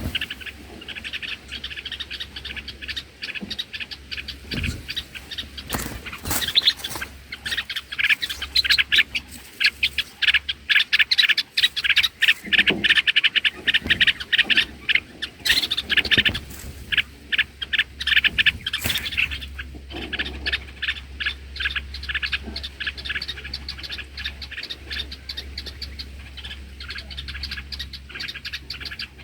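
Bulbuls calling with rapid, repeated chirps, many per second, densest through the middle and thinning out towards the end.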